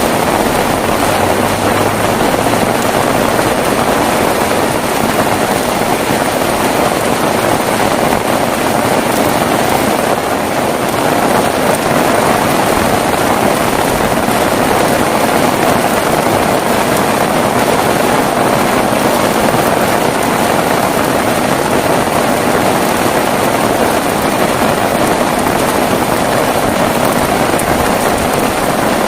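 Heavy rain falling steadily: a dense, even rush with no breaks and no thunder claps.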